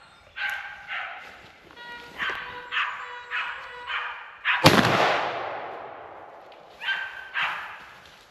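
Hunting dogs barking in short, repeated barks, then a single loud gunshot about halfway through that echoes and fades for over a second. The shot is fired at a wild boar, and the dogs bark twice more afterwards.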